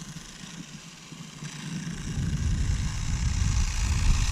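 Small brushed-motor electric RC motorcycle running on asphalt, with a steady hiss and a low rumble that grows louder about halfway through.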